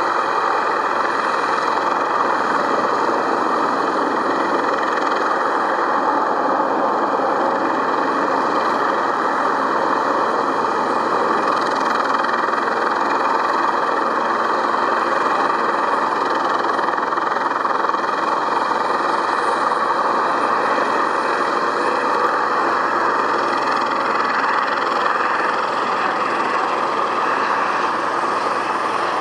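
Airbus Helicopters EC135P3 twin turboshaft helicopter running steadily: an even loud rush of turbine and rotor noise with several high steady whine tones above it.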